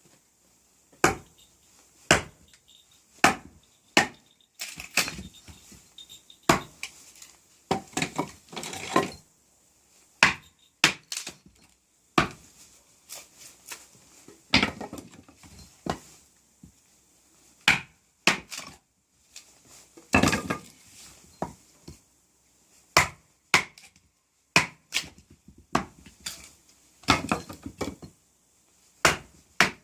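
Small hatchet knocking into short pieces of firewood to split them into kindling: sharp wooden knocks, about one a second at first, then irregular knocks mixed with longer, rougher stretches of wood cracking apart.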